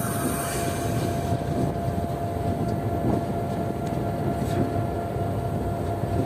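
Diesel locomotive running steadily, heard from inside the cab: a continuous rumble with a constant thin whine over it.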